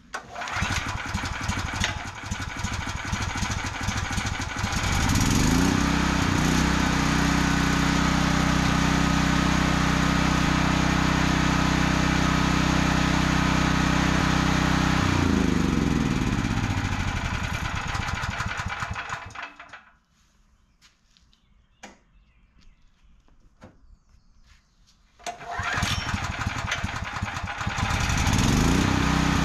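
A Briggs and Stratton generator's small engine being started on choke after sitting for years, now with a replaced carburetor: it sputters for about five seconds, catches and runs steadily, then slows and stops about fifteen seconds in. After a few seconds of quiet broken by a few clicks, it starts again and settles into a steady run near the end.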